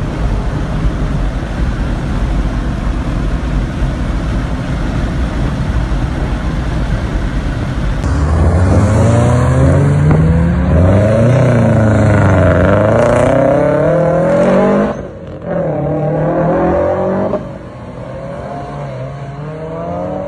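Steady rushing wind and road noise inside a moving car. About eight seconds in, a car engine revs hard, its pitch climbing and falling again and again. It cuts out briefly, revs once more, and settles quieter near the end.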